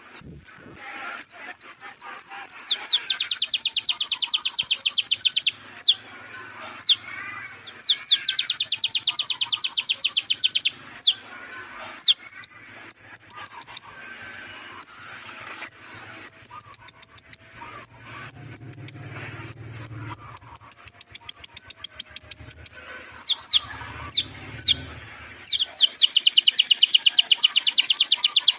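Kolibri ninja (a sunbird) singing a shrill, very high-pitched song. It runs long, fast trills of rapid repeated notes, one near the start, one in the middle and one near the end, and between them strings of short thin whistled notes.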